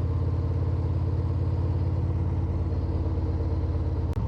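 Harley-Davidson Road Glide's V-twin engine running steadily while cruising, a low even drone with a brief break near the end.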